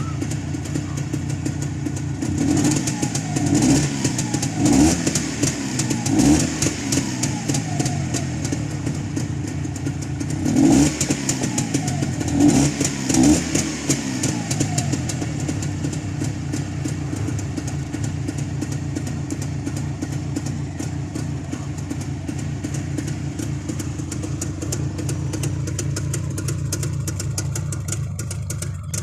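Freshly rebuilt Jawa 350 motorcycle engine idling steadily, blipped with several quick revs twice, about two seconds in and again about ten seconds in, dropping back to idle each time.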